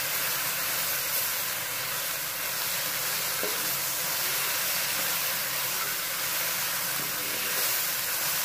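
Okra frying with onions and spices in an aluminium pan: a steady sizzle, with a wooden spatula stirring through it and a few faint scrapes.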